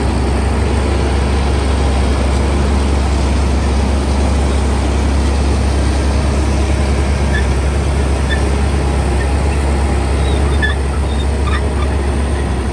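Heavy bulldozer diesel engine running steadily, a deep unbroken drone that eases slightly near the end.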